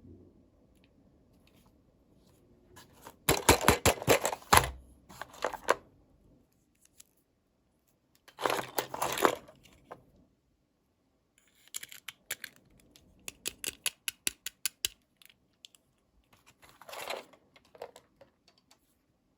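Toy packaging being opened: plastic crinkling and tearing in three separate bursts, with a run of quick sharp clicks in between as small plastic pieces are handled.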